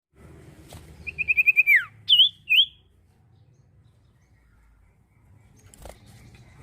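Common iora singing: a quick run of about six short high notes ending in a falling slur, then two louder whistled notes, all in the first three seconds.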